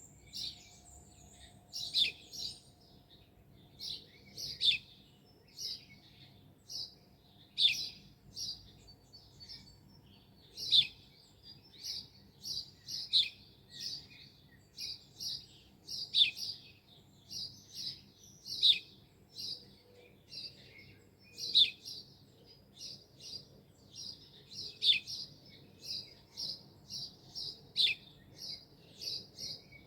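Songbirds chirping and singing: a busy run of short high calls, with sharp falling notes every second or two.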